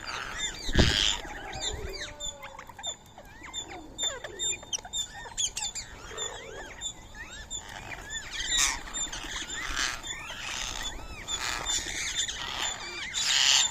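Many birds chirping and calling at once, rose-ringed parakeets among them, with several harsh screeches through the second half. A single thump sounds about a second in.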